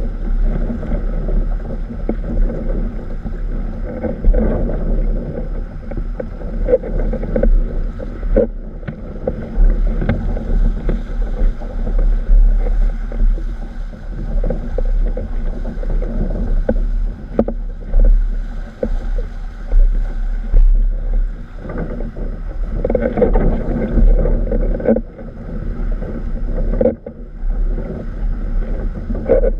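Strong wind buffeting the microphone, with water rushing and slapping against a windsurf board under sail, in uneven surges and knocks.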